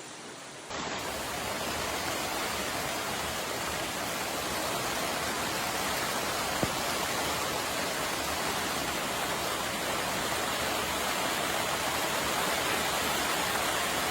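Steady, dense hiss of a heavy downpour pelting down. It steps up louder a little under a second in, and there is a single sharp knock about six and a half seconds in.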